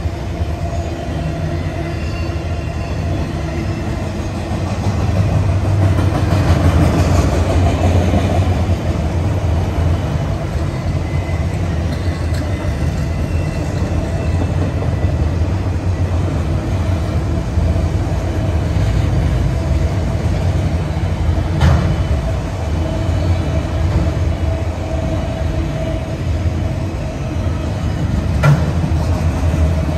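Freight train's autorack cars rolling past at speed: a steady rumble of steel wheels on rail with a faint squealing tone. Two sharp clicks of wheels over rail joints come in the last third.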